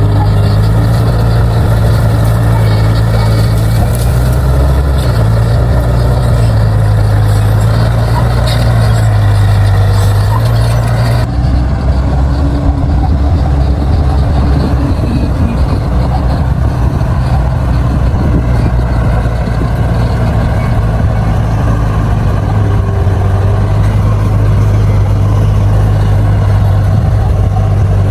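Crawler bulldozer's diesel engine running steadily under load while pushing soil, its low drone shifting slightly in pitch. About eleven seconds in, the sound changes abruptly and loses its higher hiss.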